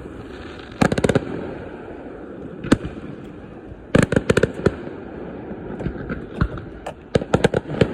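Fireworks display bursting: quick clusters of sharp cracks about a second in and again around four seconds, a single crack between them, and a rapid run of cracks through the last couple of seconds, over a steady low rumble.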